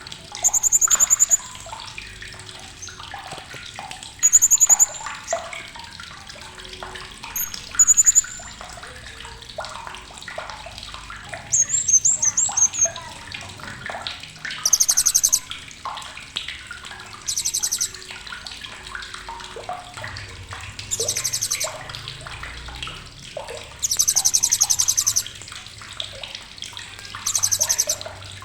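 Blue-crowned hanging parrot (srindit) giving sharp, high calls. In the first half come short whistled notes and a warbling phrase; from about halfway the calls become a run of rapid, sharp trills, each about a second long, every two to three seconds. A steady hiss runs underneath.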